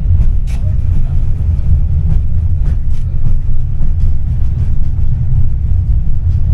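Tram running along its rails, heard from inside the car: a loud, steady low rumble with scattered clicks and knocks from the wheels and body.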